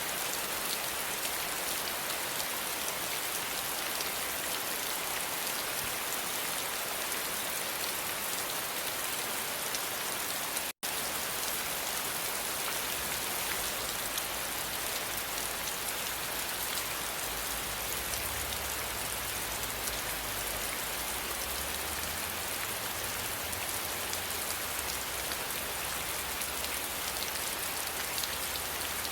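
Steady, dense rain hiss. It drops out completely for a split second about a third of the way through, then carries on, with a faint low rumble underneath in the second half.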